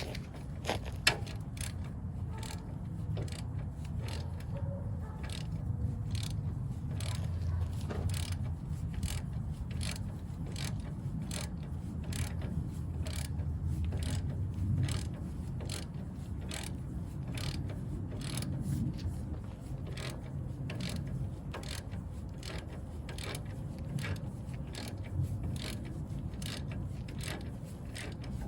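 Hand ratchet wrench clicking steadily, about two to three clicks a second, as a fastener is turned, over a low rumble.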